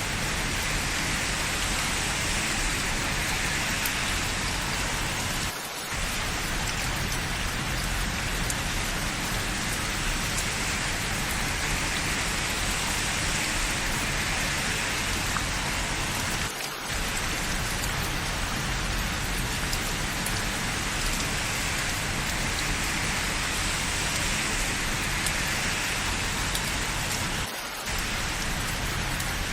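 Steady rain falling on hard surfaces: a dense, even hiss, with a brief drop in level about every eleven seconds.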